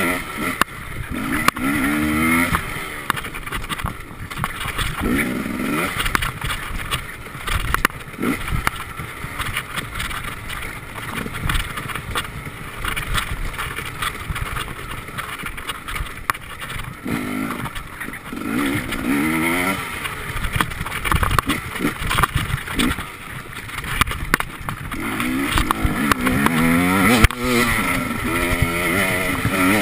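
Enduro motorcycle engine revving up and falling back over and over as it is ridden hard over a dirt trail, with scattered knocks from bumps in the ground.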